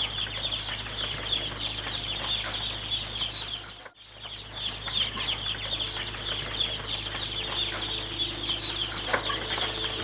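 A flock of young broiler chickens peeping continuously, many high falling cheeps overlapping, with a brief break about four seconds in.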